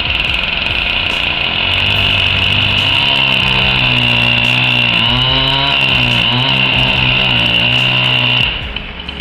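Chainsaw running at high speed through wood, a steady high whine over the engine, whose pitch dips and recovers twice midway; it cuts off suddenly about a second before the end.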